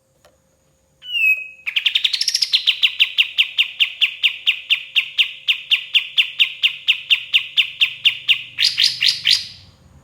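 Pied triller (kapas tembak) singing: a short call, then a long, fast trill of evenly repeated down-slurred notes, about five a second, lasting around seven seconds and ending in a few louder, higher notes.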